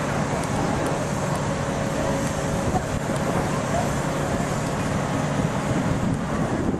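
Class 67 diesel locomotive's V12 two-stroke engine running steadily with a low hum, under a bed of outdoor noise.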